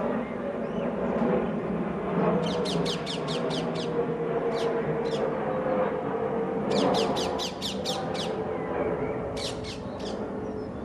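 Bird calling in quick runs of shrill, repeated squawks, about five a second: a run of six, two single notes, a run of eight, then three more. A steady low hum runs underneath.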